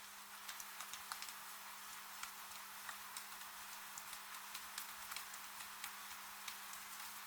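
Wood fire crackling with frequent small irregular pops over a steady hiss of falling rain.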